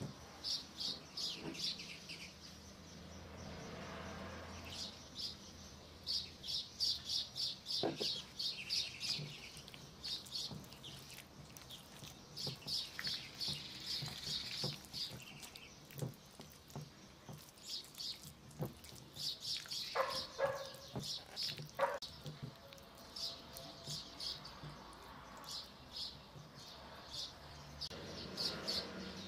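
A small bird chirping over and over in quick runs of short, high notes. Now and then a silicone spatula knocks and scrapes softly in a glass dish as a yogurt-and-zucchini mixture is stirred.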